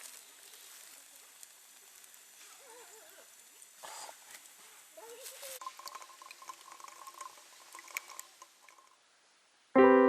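Faint background ambience with scattered small clicks and a few brief wavering tones, then a loud, sustained piano chord begins near the end.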